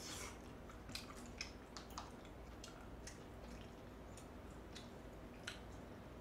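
Quiet close-up eating sounds of someone chewing saucy braised chicken: soft wet smacks and clicks of the mouth, about one every half second to a second, a few sharper than the rest.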